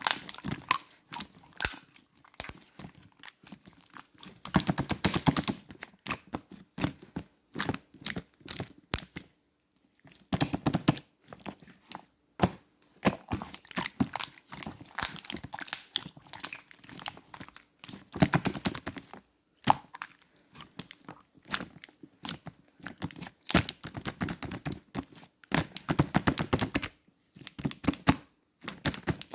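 Pudding-textured slime being squeezed and stretched by hand, giving irregular bursts of sticky clicks and small pops with short pauses between.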